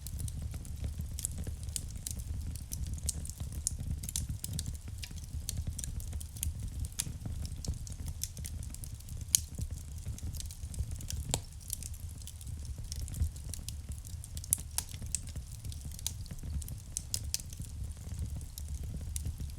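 Wood fire crackling in a fireplace: a steady run of irregular sharp snaps and pops over a low, even rumble, with a couple of louder snaps about nine and fifteen seconds in.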